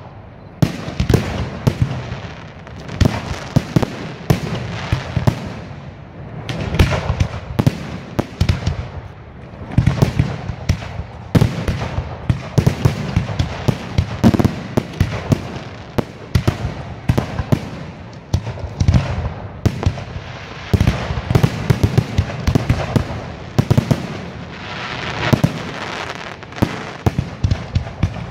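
Aerial fireworks display: shells bursting one after another in dense runs of sharp bangs and pops that keep up without a break.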